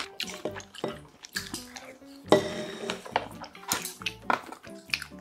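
Chopsticks clicking against dishes and a stainless steel bowl, with one louder knock that rings briefly about two seconds in, over background music.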